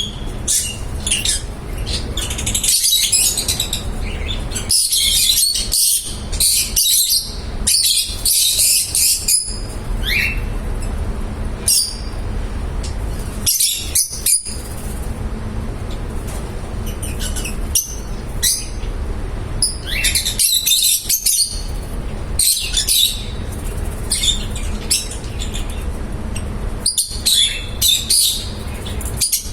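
Pet lovebirds chirping and chattering in bunches of rapid high-pitched chirps with short gaps between them, over a steady low hum.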